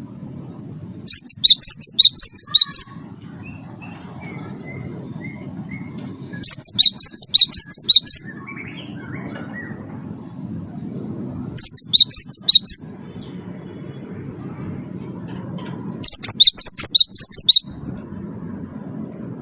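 Cinereous tit (gelatik batu) singing: four bursts of rapid, repeated high notes, each one to two seconds long and a few seconds apart, over a faint low background hum.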